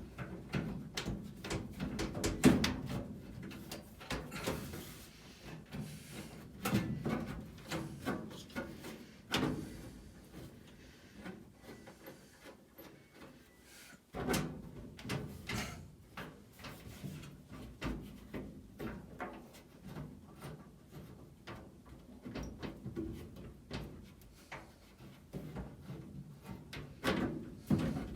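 Irregular knocks, clicks and scrapes from handling the furnace filter box and its cover as it is fitted and closed. There is a sharp knock about 2.5 s in, a quieter stretch before another sudden knock halfway through, and more knocking near the end.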